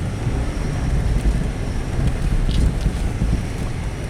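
Car driving over rough snowy ground: a steady low rumble of engine and tyres, with wind buffeting the microphone.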